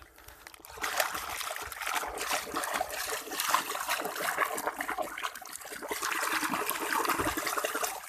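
Running water splashing and trickling over a mud-caked toy as it is rinsed clean. It starts suddenly and cuts off suddenly about eight seconds later.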